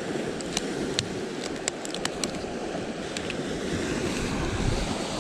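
Sea waves washing against rocky shore, a steady rush with some wind on the microphone. A string of small sharp clicks and taps comes in the first half.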